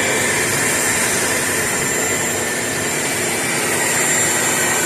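Craftsman CMXEVBE17595 16-gallon, 6.5 peak HP wet/dry shop vac running steadily, its motor giving an even rushing noise with a thin high whine over it. The exhaust baffle is not fitted, so the exhaust blows out unmuffled; still, it is not loud at all for a shop vac.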